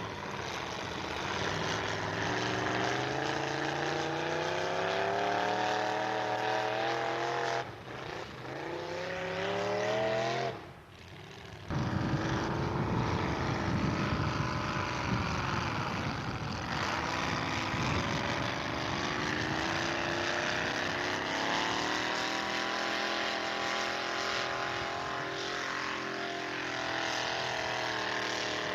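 Pulling truck's engine running hard at high revs under load, its pitch climbing steadily and dipping briefly about eight seconds in. After a one-second break near eleven seconds, a louder, rougher engine run with wavering pitch follows.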